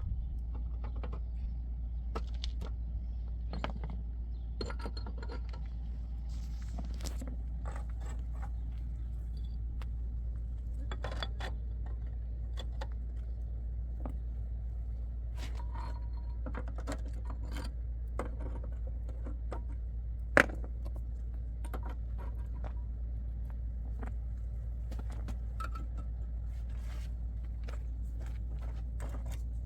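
Scattered light metallic clinks and jingles over a steady low rumble, with one sharp click about twenty seconds in.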